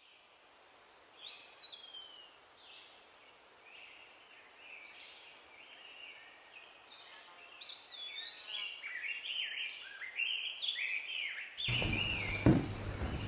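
Rainforest birds singing: a run of short, gliding whistled calls over a faint hiss, growing busier about eight seconds in. Near the end it gives way to a louder stretch with a few knocks.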